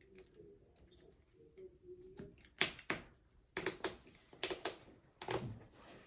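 Trading cards handled and set down on a tabletop: a run of sharp taps and clicks, mostly in close pairs, through the second half.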